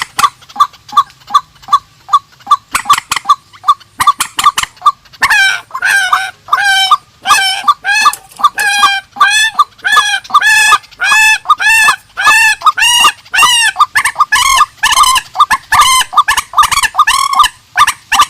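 Purple swamphen and white-breasted waterhen calling: a fast run of short, clucking notes about three a second, then from about five seconds in, longer arched notes with several pitches at once, about two a second.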